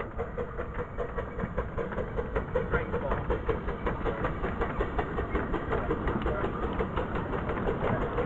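Miniature railway train running, its engine giving a fast, even pulsing beat.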